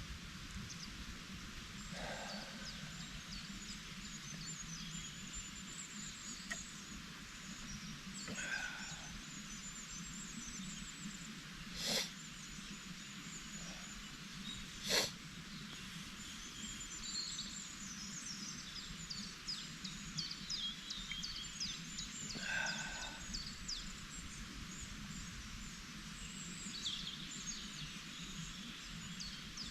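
Songbirds chirping and trilling over the steady rush of a creek, with two sharp clicks about twelve and fifteen seconds in.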